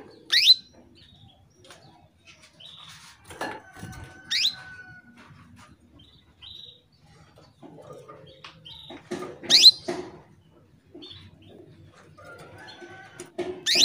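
Female canary calling for a male: four sharp rising call notes a few seconds apart, with softer chirps between them. This is the call of a hen in breeding condition.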